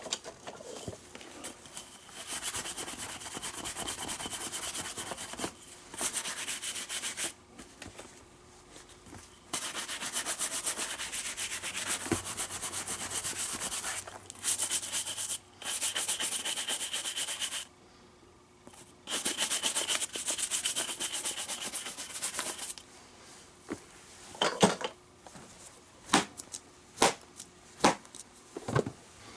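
Leather of a Rawlings baseball glove being rubbed and polished in long strokes lasting a few seconds each with short pauses between, bringing the colour up in the leather. In the last few seconds the rubbing gives way to a run of sharp taps and knocks.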